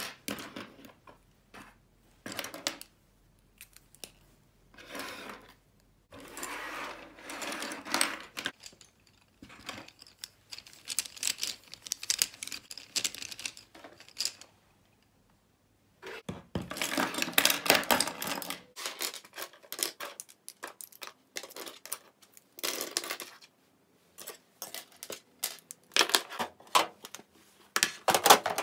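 Small hard objects being handled and set down: bursts of clicking, clattering and rustling, several seconds each, separated by short pauses.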